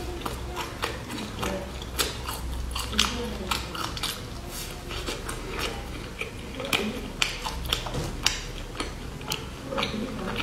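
Close-miked crunching and chewing of a crispy puffed-rice and peanut bar: many sharp, irregular crackles, several a second.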